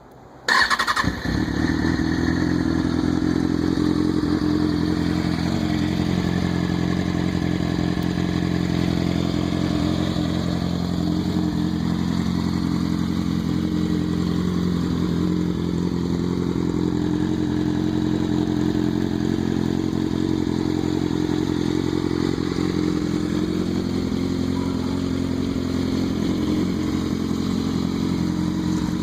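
A 2004 Kawasaki ZX-6R 636 inline-four with a Two Brothers shorty aftermarket exhaust, started up about a second in and then idling steadily.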